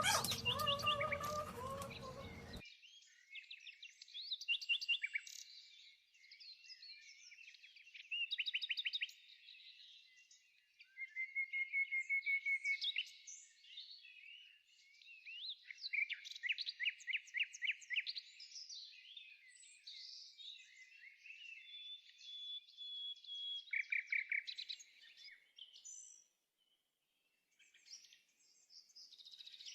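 Songbirds singing: repeated chirps, fast trills and short whistled phrases, with a brief pause near the end.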